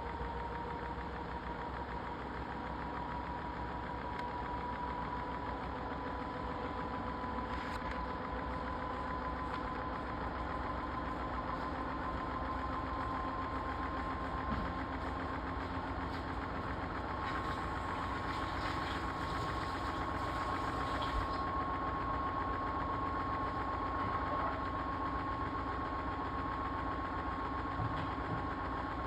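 Washing machine motor running with a steady whine that climbs slowly in pitch as the drum speeds up in the spin cycle.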